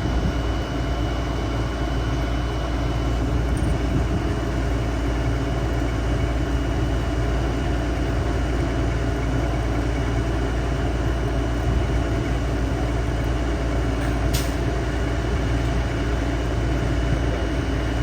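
Heavy engine running steadily at a constant speed, with one short sharp click about fourteen seconds in.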